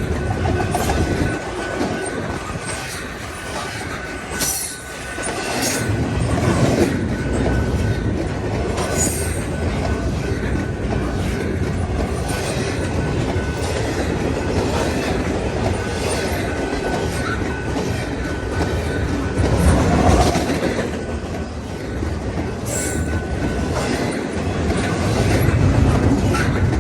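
Freight train's cars rolling past, wheels clicking over the rail joints, with a faint steady wheel squeal over the rumble.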